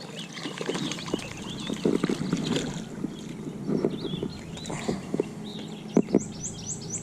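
Birds singing, with scattered knocks and handling noise from a small fishing boat, including two sharp knocks about six seconds in.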